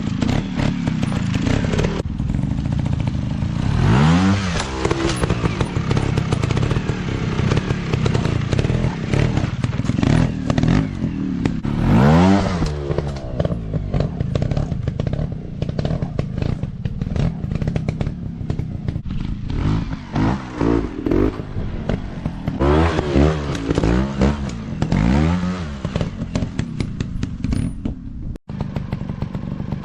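Dirt bike engine running hard off-road, its pitch rising and falling with the throttle. There is a strong rev about four seconds in and another about twelve seconds in, then a run of quicker throttle blips in the last third.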